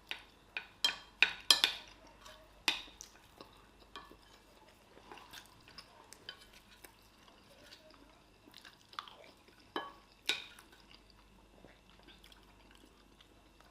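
People eating fast, with chewing and cutlery clinking and scraping against plates in scattered sharp clicks. The clicks come thickest about a second in and again near the ten-second mark.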